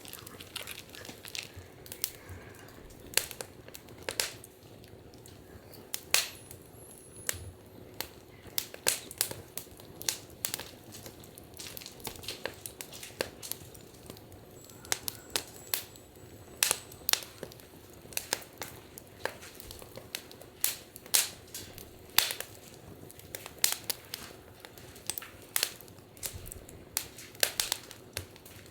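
Wood fire crackling in a fire pit, with irregular sharp pops and snaps, often several a second, over a faint steady hiss.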